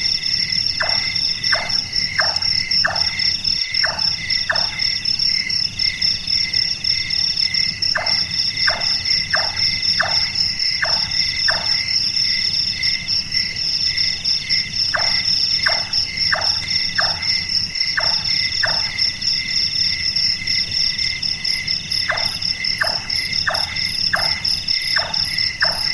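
Large-tailed nightjar calling: four series of about six hollow 'chonk' notes, each at about one and a half notes a second and a few seconds apart, like hammering, over a steady high-pitched chorus of night insects.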